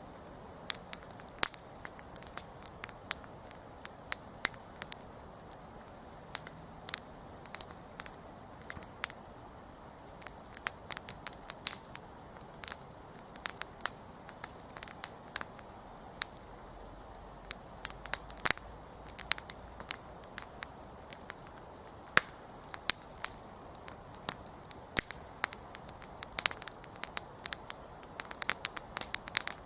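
Wood campfire burning, with frequent irregular sharp crackles and pops over a soft steady hiss of flame.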